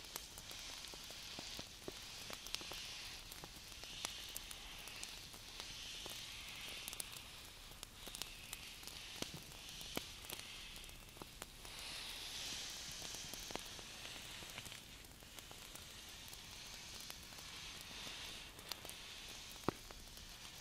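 Hands rubbing and brushing close to the microphone: a soft hiss that swells and fades every second or two, with light scattered clicks of skin.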